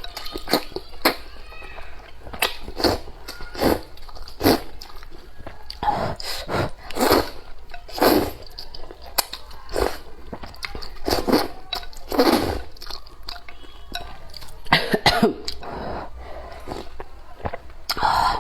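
Repeated short mouth sounds from a person eating spicy instant rice noodles, coming irregularly every half second to two seconds.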